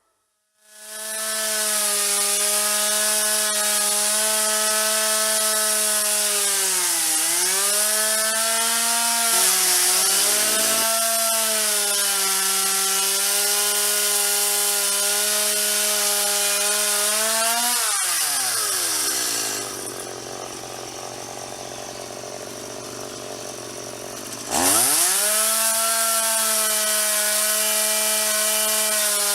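Gas-powered chainsaw running at high throttle, its pitch dipping briefly a few times as it loads up in the wood. About two-thirds of the way through it drops back to idle for several seconds, then revs sharply back up to full speed.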